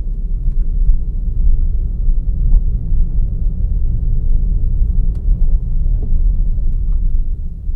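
Steady low rumble of a car driving, picked up by an on-board camera, with a few faint ticks over it.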